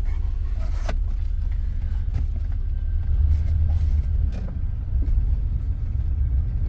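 Steady low rumble of a moving car's road and engine noise, heard from inside the cabin, with a few faint knocks.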